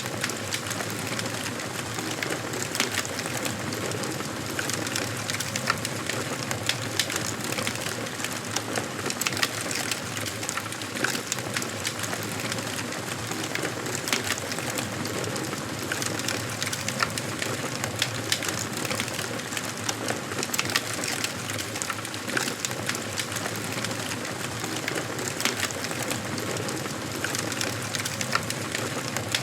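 Wood fire burning in a fireplace, crackling steadily, with frequent sharp pops and snaps over a continuous hiss.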